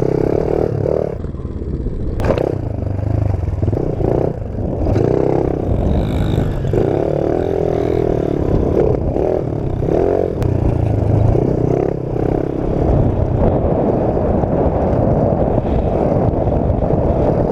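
Pit bike's small engine running and revving up and down again and again, with a sharp knock about two seconds in.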